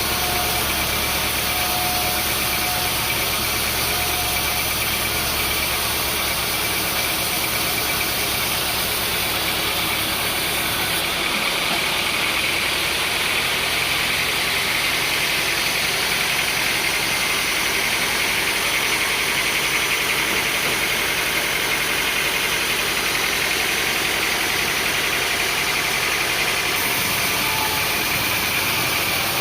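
Sawmill machinery running steadily with an engine-like drone. About eleven seconds in the low rumble drops away and a higher hiss grows stronger, easing back near the end.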